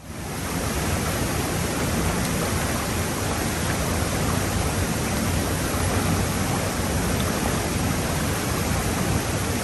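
Steady roar of a large waterfall, a dense even rush of falling water that swells up in the first second and then holds level.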